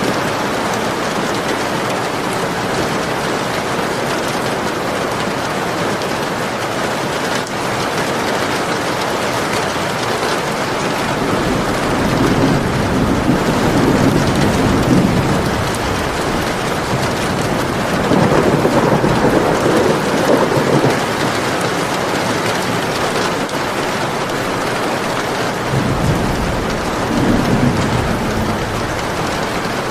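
Steady rain falling, with thunder rumbling low three times, in swells that last a few seconds each.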